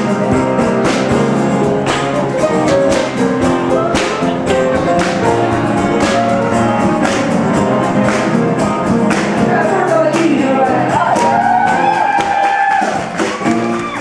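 Live band music: keyboard chords over a steady percussion beat, with a singer's voice sliding through wordless runs about two thirds of the way in.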